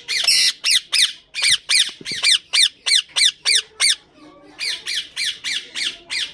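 Indian ringneck parakeet giving a rapid run of high squawks, each falling in pitch, about four a second; the calling breaks off a little past the middle and starts again after a short pause.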